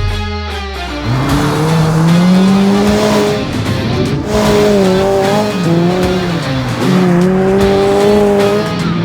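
Rally car engine revving hard under acceleration. Its pitch climbs steeply about a second in, then rises and drops several times with gear changes and lifts.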